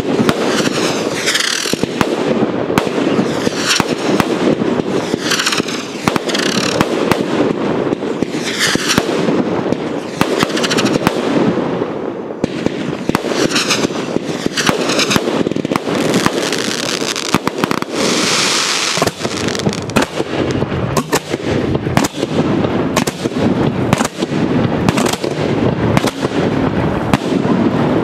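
Aerial fireworks display: a continuous barrage of shells launching and bursting, with sharp bangs many times a second over a constant rumble. High hissing swishes about a second long recur every few seconds.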